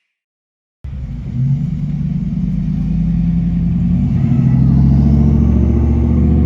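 Fire engine's engine running loud and low. It cuts in suddenly about a second in and builds over the next few seconds, with a faint rising whine about halfway through.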